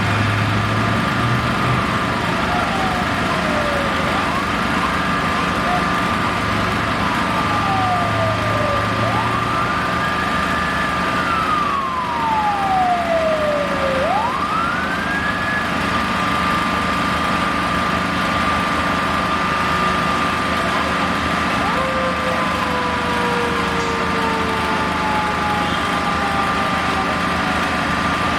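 Emergency vehicle siren wailing, sweeping down and up in pitch several times, then a slower long falling sweep that starts rising again near the end, over steady street traffic noise and a constant high tone.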